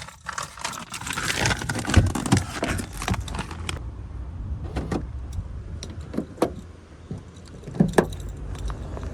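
Car sounds: about three seconds of rustling and knocking, then a steady low rumble of a car running, with a few sharp clicks.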